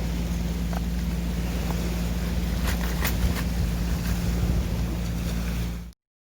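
Waves washing on the shore with wind rumbling on the microphone, a few faint clicks around the middle. It cuts off suddenly near the end.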